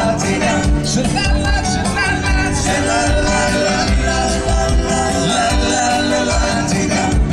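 Live band playing an upbeat song, with a kick drum keeping a steady beat.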